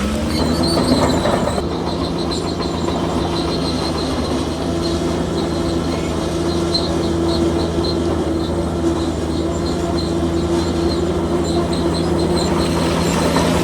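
Bulldozer's diesel engine running at steady revs under load, with metallic squeaking and clatter from its steel crawler tracks.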